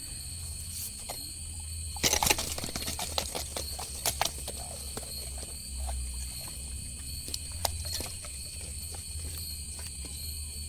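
Crickets chirring steadily at night. About two seconds in comes a flurry of sharp clicks and knocks that thins out over the next few seconds.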